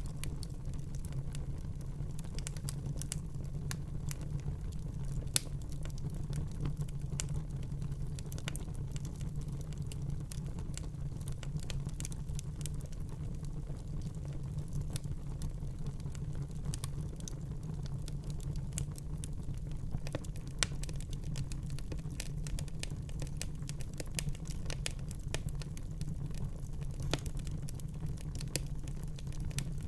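Wood fire burning in a fireplace, crackling and popping irregularly over a steady low rumble, with a few sharper pops standing out.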